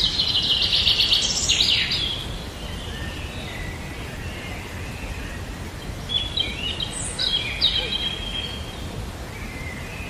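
Small birds chirping and trilling, a dense burst of high calls in the first two seconds and scattered chirps again later, over a steady low outdoor background noise.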